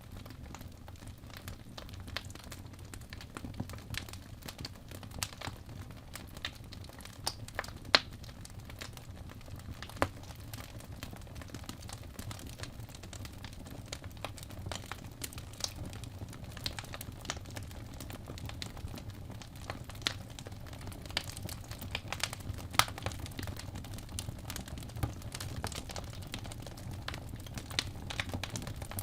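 Fire burning in a fireplace: steady crackling over a low rumble, with scattered sharp pops, a few much louder than the rest, the sharpest about eight seconds in.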